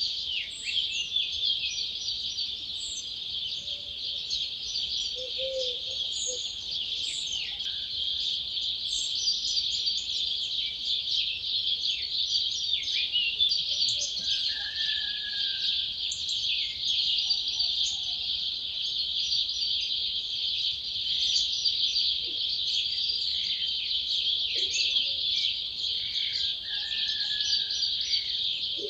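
Dawn chorus: many wild birds singing at once, a dense, unbroken mix of overlapping high songs and chirps. Separate whistles and trills stand out above it, and a few short low calls sound now and then.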